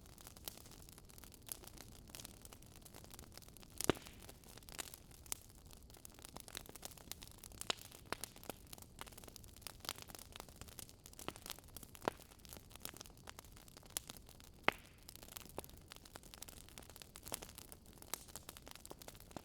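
Wood fire crackling: irregular sharp pops and snaps over a soft hiss, with two louder pops about four seconds in and near fifteen seconds.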